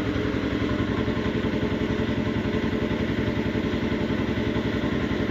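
A small engine idling steadily nearby, with an even, rapid pulse.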